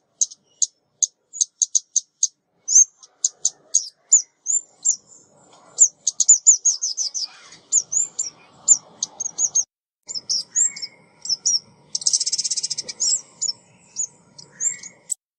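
Recorded lure call of a female 'ốc mít' songbird, as used by bird trappers: a quick, uneven string of high, thin chips and short down-sweeping notes, with a fast buzzy rattle about twelve seconds in.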